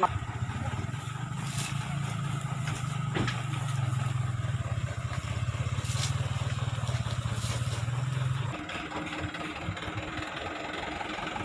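A vehicle engine running steadily with a low hum, which drops away about two-thirds of the way through.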